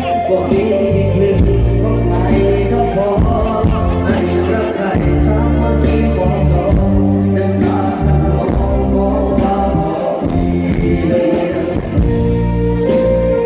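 A luk thung mor lam band playing a song with singing over steady bass notes.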